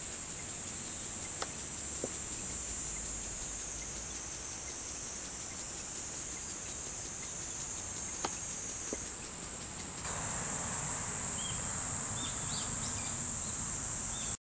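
Insects shrilling: a high, rapidly pulsing buzz that becomes louder and steadier about ten seconds in. A few faint clicks and some short bird chirps are mixed in.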